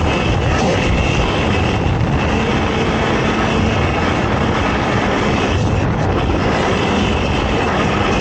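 Quad (ATV) engine running steadily at speed: a loud, continuous engine noise without letup.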